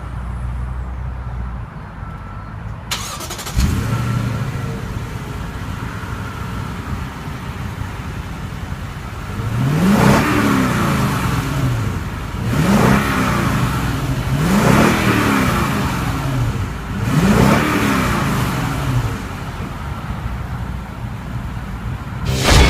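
Lexus LX 570's 5.7-litre V8 starting about three seconds in and settling into idle, then revved four times, each rev rising and falling in pitch before it drops back to idle.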